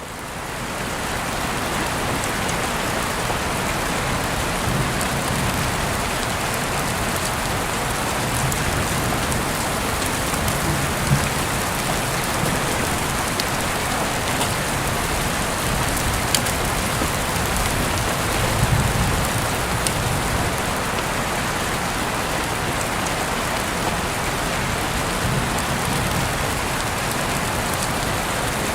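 Steady rain falling, fading in over the first couple of seconds, with a few brief sharp ticks here and there.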